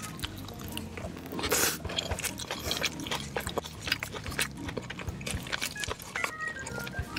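Close-miked eating: wet chewing and mouth smacking with many small clicks, and one louder, brief crunchy or slurping burst about a second and a half in.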